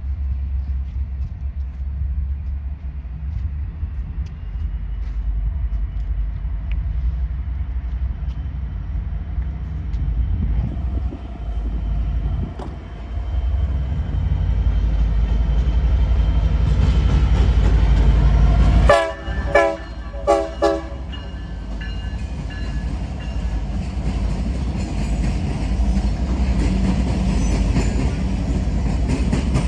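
A train's locomotive rumbling past, the heavy low running noise building to its loudest. A few short, loud blasts of its multi-chime air horn come about two-thirds of the way through.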